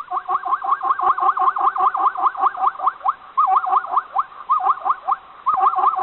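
An animal giving a rapid series of short, repeated chirping calls, about five or six a second, in bursts with brief breaks.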